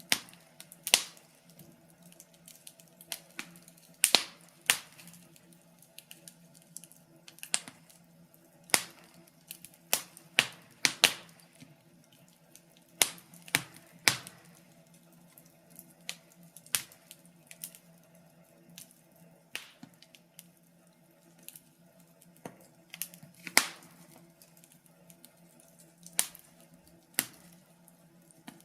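Wood fire crackling: irregular sharp pops and snaps from the burning logs, some loud and some faint, with uneven gaps between them, over a faint steady low hum.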